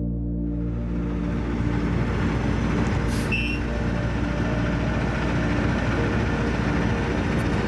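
Truck running, with dense engine and road noise that swells in and cuts off abruptly at the end, and a brief hiss about three seconds in. Ambient music continues faintly underneath.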